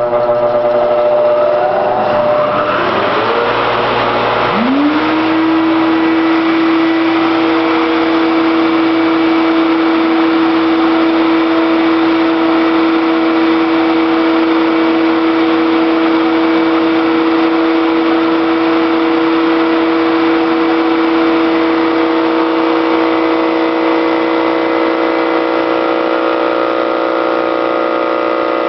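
A radial arm saw fitted with a large homemade cutter head for beehive hand holds, and a shop vacuum, starting up: rising whines as the motors spin up over the first few seconds. Then a loud, steady hum with a whine holds.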